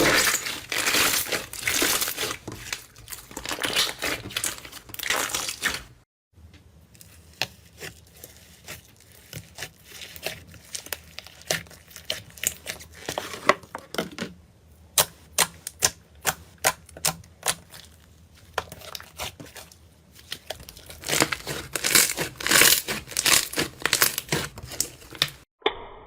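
Slime being squeezed and worked by hand: dense crackling and crinkling, then from about six seconds in a sparser run of sharp clicks and pops, with dense crackling again near the end.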